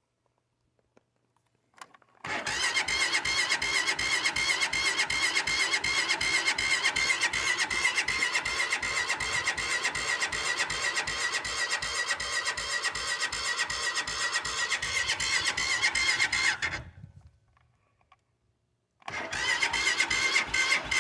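Engine turning over on its electric starter without catching: a whining, evenly pulsing crank that runs for about fifteen seconds, stops, and starts again about two seconds later. The engine is failing to start from cold.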